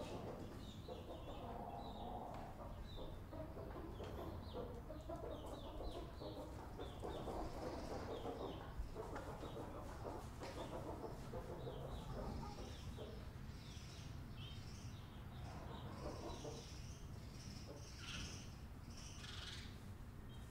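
Birds calling: a stream of quick, short chirps from small birds, with lower calls mixed in now and then.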